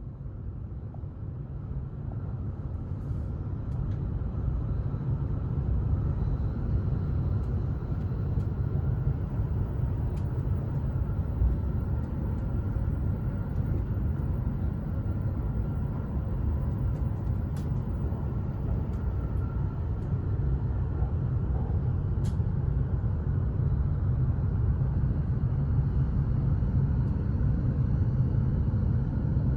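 E7/W7-series Hokuriku Shinkansen train running, a steady low rumble that builds over the first several seconds and then holds, with a faint steady whine and a few light clicks on top.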